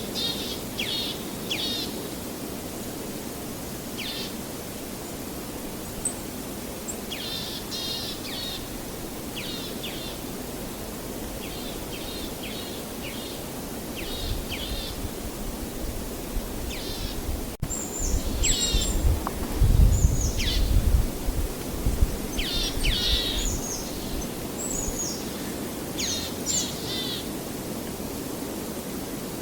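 Small birds singing and chirping in short repeated phrases over a steady rushing ambience, likely surf. A few seconds past the middle, a low rumbling comes in and is the loudest part.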